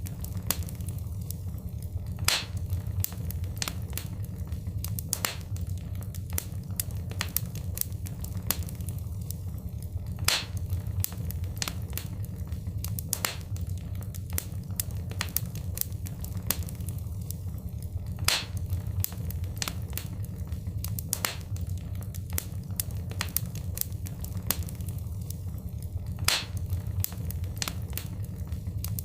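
Wood fire crackling: frequent sharp pops and snaps over a steady low rumble. The same pattern of louder pops recurs about every eight seconds, as in a looped recording.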